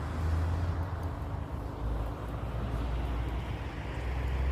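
A steady low rumble with an even noisy hiss above it.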